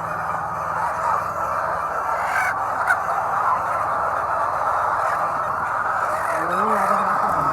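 A flock of hens in a poultry shed, many calling at once in a steady, dense din of overlapping clucks and squawks.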